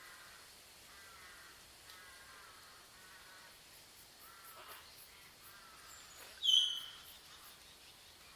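Wild birds calling: a faint, harsh call repeated about once a second, then one louder, short, high-pitched bird note about six and a half seconds in.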